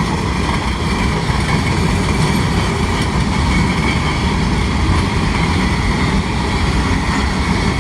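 Freight train rolling past close by: a steady, loud rumble of wheels and cars on the rails.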